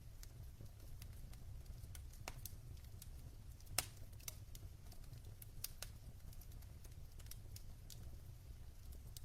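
Logs burning in a fireplace: scattered crackles and pops over a low steady rumble, with one sharp pop about four seconds in.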